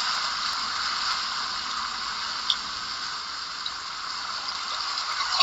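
Rushing water: a steady, even hiss of falling or churning river water, with one faint tick about halfway through.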